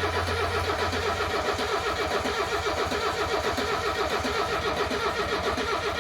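Starter cranking a Mercedes OM617 turbo in-line five-cylinder diesel, a steady rhythmic churning of compression strokes without the engine catching. Air is still in the fuel lines after the engine swap, so it is not firing.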